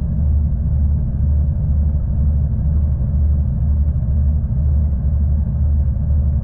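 V/Line passenger train running: a steady low rumble with a regular low pulsing.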